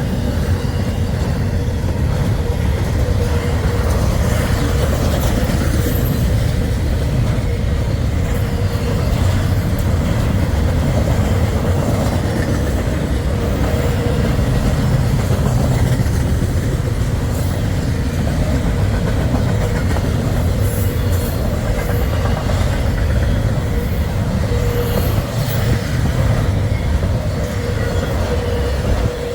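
Freight train rolling past at steady speed: a continuous rumble of steel wheels on rail, with a faint steady ringing tone and a few light clicks in the second half.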